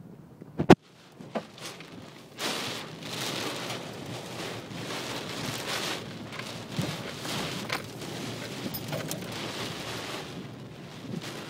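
Heavy rain, a steady hiss that swells up about two and a half seconds in and surges unevenly after that. A single sharp click comes just before it.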